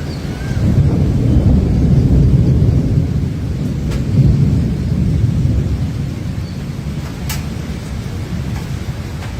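Heavy rain with a low, rolling rumble of thunder that swells over the first few seconds and eases toward the end. A couple of sharp ticks sound during it.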